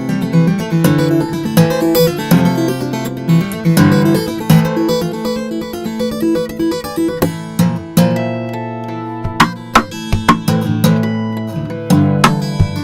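Acoustic guitar being played, picked notes and chords ringing, thinning out to a few longer-held chords about eight seconds in.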